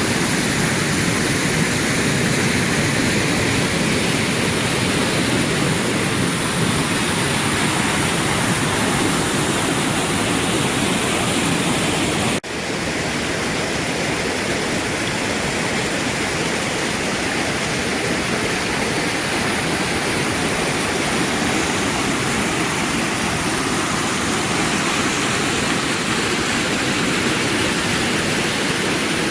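Waterfall rushing: a steady, loud roar of falling water. About twelve seconds in it cuts off for an instant and resumes a little quieter.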